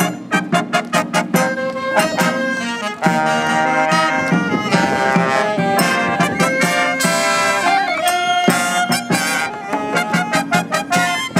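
Live brass band playing an upbeat medley of Japanese festival songs, brass and woodwinds over regular drum beats.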